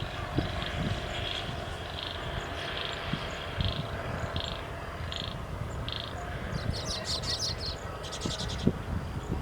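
Outdoor animal calls: short high chirps repeat about one and a half times a second. A rapid, buzzy trill comes in about two-thirds of the way through, and there are scattered low knocks.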